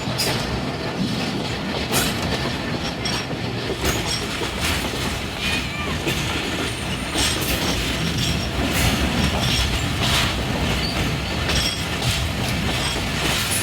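Passenger train heard from on board as it runs along the track: a steady rumble with clicking of the wheels over rail joints and a few faint brief squeals.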